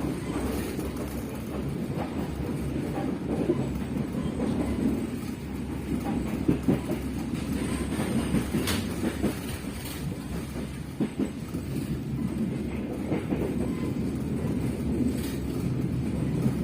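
Passenger train running along the rails: a steady low rumble from the carriage, with scattered sharp clicks of the wheels over rail joints.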